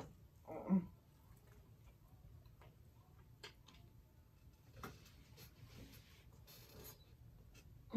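Close-miked eating sounds of a person biting and chewing a burger: soft scattered mouth clicks and smacks, with one short louder mouth sound about a second in.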